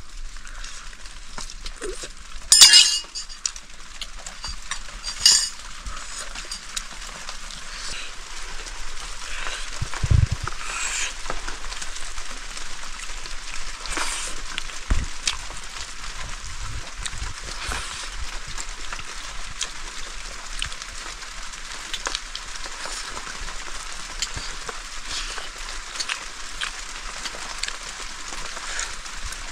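Chicken curry frying in a pot with a steady sizzle while it is stirred. A metal spoon strikes the pot sharply twice in the first few seconds, then a few fainter knocks follow.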